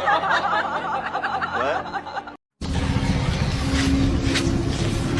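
High-pitched giggling with a rapid wavering pitch, which stops abruptly about two seconds in; a steady low hum with noise follows.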